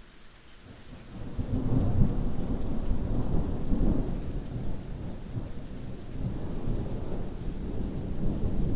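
Thunder rolling over steady rain: a low rumble builds about a second in, then rolls on with several swells.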